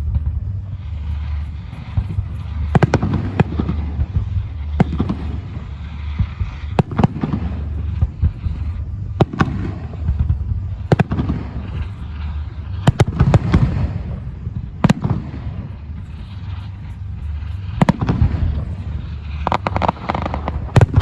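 Fireworks display: shells bursting in sharp bangs about every one to two seconds, over a continuous low rumble.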